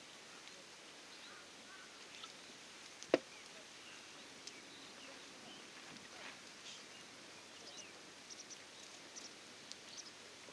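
Campfire crackling faintly: scattered small pops, with one sharp crack about three seconds in.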